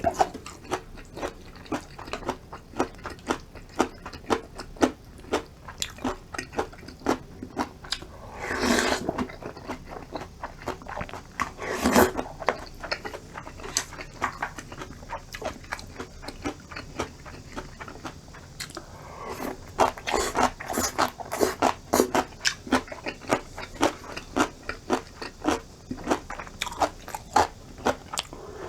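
Close-miked eating: steady wet chewing and crunching of food, a few bites a second, with a few longer, noisier stretches about nine and twenty seconds in. The meal is cold acorn jelly rice soup with seasoned garlic scapes and chili peppers; the crunch belongs to the crisp vegetables.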